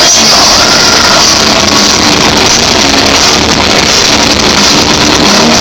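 Loud live rock music with distorted electric guitars and drums, the recording overloaded into a dense, smeared wash.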